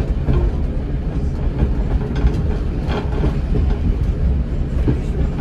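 Class 108 diesel multiple unit on the move, heard from the driver's cab: a steady low rumble of engine and wheels, with a few sharp clicks of the wheels over rail joints around the middle.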